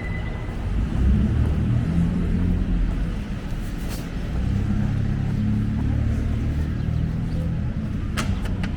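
A low, uneven rumble, with a few sharp clicks near the end.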